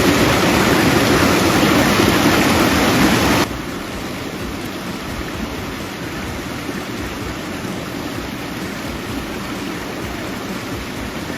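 Mountain spring water running and splashing in a steady rush, loud for the first few seconds, then dropping suddenly to a softer steady flow.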